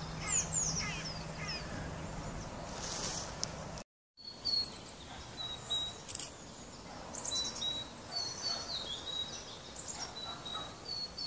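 Small wild birds chirping and calling over a light outdoor background hiss, with short, high, repeated notes and quick down-sweeping chirps. The sound cuts out completely for a moment about four seconds in, and a faint low hum in the first few seconds stops there too.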